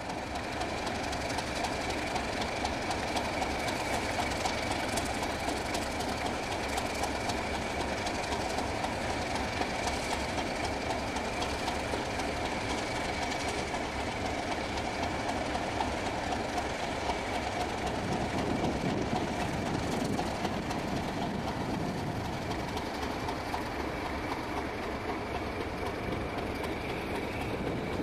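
Passenger coaches of a train hauled by Class 31 diesel locomotives rolling past steadily, wheels clicking over the rail joints.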